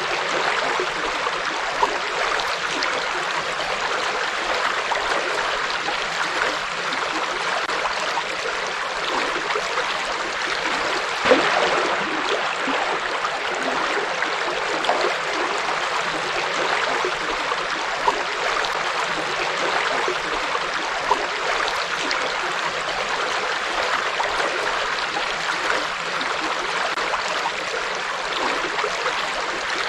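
Forest river flowing: a steady rush of water with occasional brief splashes, the loudest about eleven seconds in.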